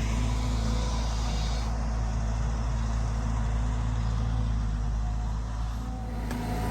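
Caterpillar 320GX excavator's Cat C4.4 four-cylinder turbodiesel running steadily under digging load, with a higher hiss that drops away about two seconds in.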